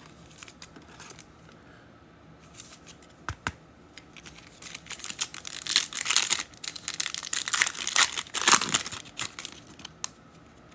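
Foil trading-card pack wrapper being torn open and crinkled, in a run of crackly bursts starting about halfway through, after a single click.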